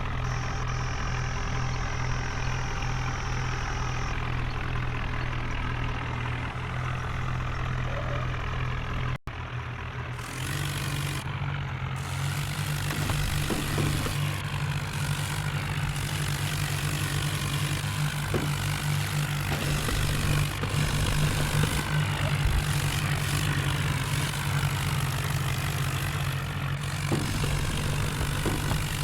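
A heavy vehicle's diesel engine running steadily at a low, even speed. About nine seconds in the sound breaks off for an instant, and after that the engine comes through louder.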